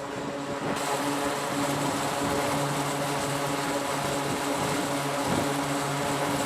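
Twin turboprop engines of an E-2D Advanced Hawkeye running, a steady propeller drone of humming tones over a rushing noise that grows louder about a second in.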